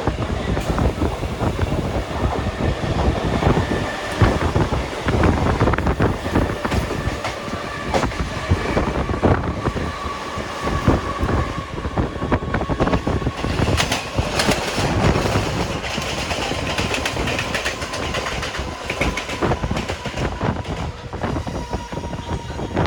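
Train running on the tracks, its wheels clattering over rail joints with a steady rumble and a faint ringing tone underneath.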